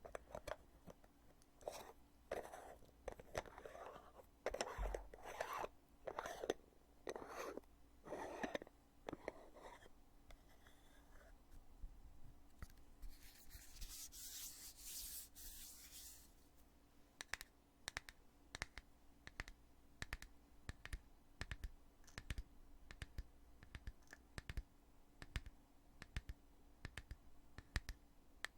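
A heavy lid on a cosmetic foundation container being handled close up: about ten seconds of rubbing and scraping strokes, a hissing rub a few seconds later, then a long run of light, sharp clicks and taps.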